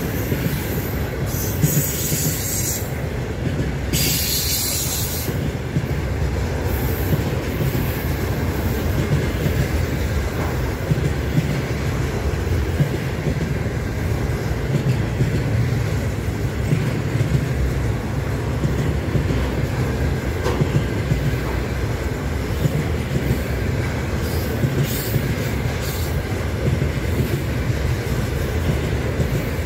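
Loaded container flatcars of a freight train rolling past on a curve: a steady rumble of steel wheels on the rails, with two brief high hissing screeches from the wheels in the first few seconds.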